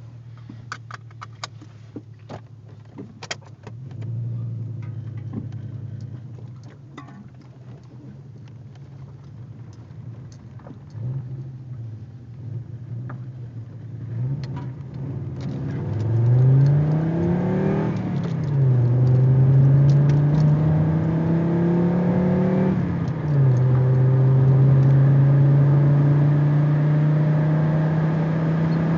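Audi 80 B4 2.3E's 2.3-litre inline five-cylinder engine running through a Fox aftermarket exhaust, low and quiet at first, with a few clicks in the first seconds. About halfway through it gets louder and its note rises twice, dropping back sharply each time. It then holds a steady, louder note.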